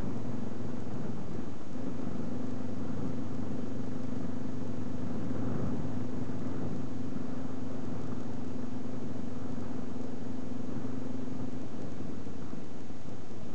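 Honda XL250 Degree single-cylinder motorcycle engine running at a steady cruise, heard from on the bike, with wind rumbling on the microphone. The engine note holds level for most of the stretch and drops off near the end.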